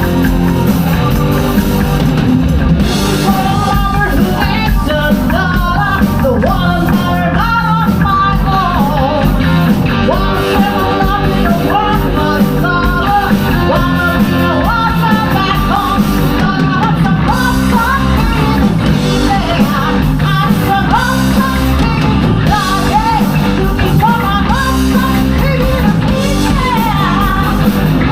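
A rock band playing live: drum kit, electric guitars and bass, with a lead line that bends and slides over the top, sung or played on guitar.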